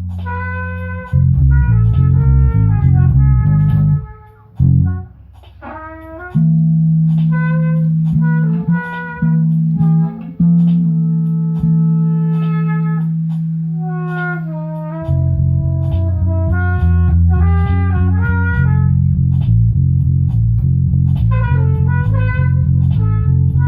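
A band playing an instrumental jam: a loud bass part under a melodic lead of single held and sliding notes. The bass drops out for about two seconds near the start, then comes back.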